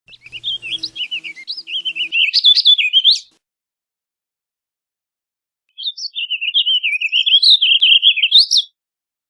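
Warbling vireo singing two songs, each a rapid, run-on warble of about three seconds that ends on a higher note, a few seconds apart.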